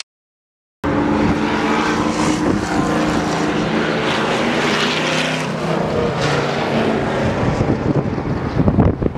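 Several stock car engines idling together in a steady drone, coming in after a moment of silence.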